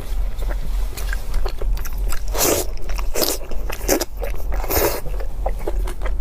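A person eating close to the microphone: wet chewing and biting, with four louder crunches in the middle. A steady low hum runs underneath.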